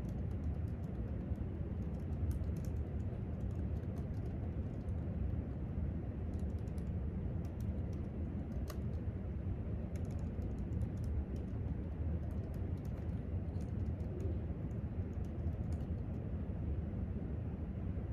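Typing on a laptop keyboard: irregular light key clicks over a steady low background rumble.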